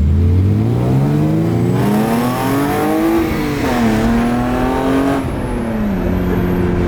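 Car engine accelerating: its pitch climbs for about three seconds, dips briefly at a gear change, climbs again, then drops back and holds steady near the end.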